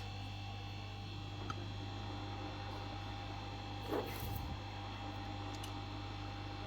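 Steady low electrical mains hum, with a small click about a second and a half in and a brief soft rustle about four seconds in.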